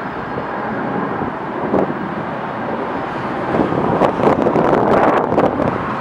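Jet engines of a Boeing 777-200ER on approach to land: a steady rushing noise mixed with wind buffeting the microphone, louder with a few crackles about four seconds in.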